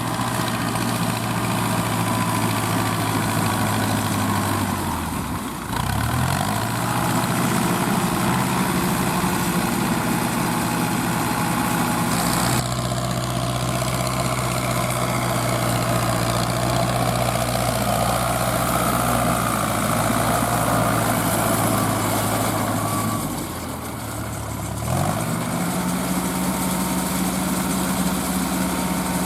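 Fiat 640 tractor's four-cylinder diesel engine running steadily while driving a straw baler. Twice, about five seconds in and again a few seconds before the end, the engine note sinks and then climbs back up.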